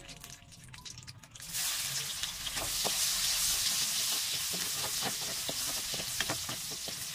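Garlic and onion sizzling in hot oil and butter in a nonstick wok, the hiss starting suddenly about a second and a half in as they go into the fat. Short clicks and scrapes of a spatula stirring them run through the sizzle.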